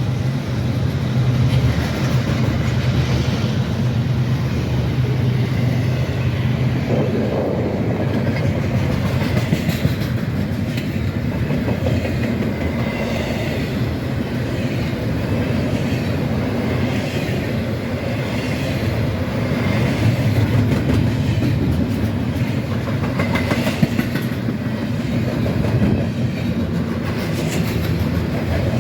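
Railroad cars of a passing train rolling by: a steady rumble with the clickety-clack of wheels over rail joints throughout.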